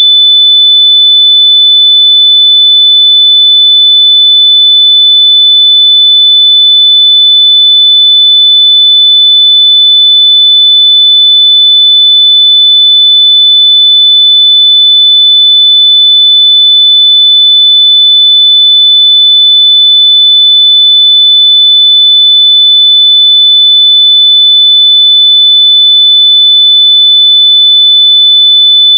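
A continuous, very loud high-pitched beep: a single steady test tone of about 3.5 kHz, held without a break or change in pitch. It is generated audio, played so that lost wireless earbuds can be found by ear.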